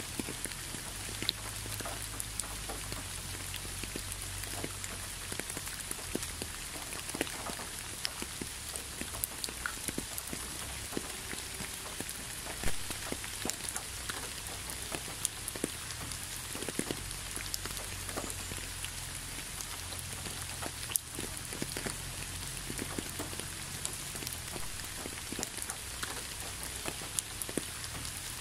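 Steady gentle rain falling onto a leafy road: an even hiss dotted with many separate drops tapping, one louder drop about halfway.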